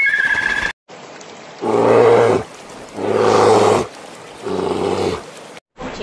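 A large animal roaring three times. Each call is low-pitched, about a second long, with the calls roughly a second and a half apart. Before them, a high-pitched call is cut off in under a second.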